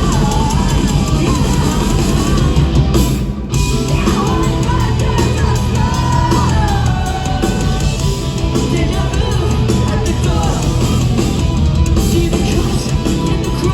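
Live rock band playing loudly, with a drum kit and a singer's voice over the band.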